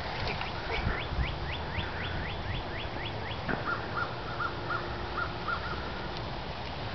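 A bird singing: a quick run of about ten high notes, each sweeping downward, then a slower series of about seven shorter, lower notes.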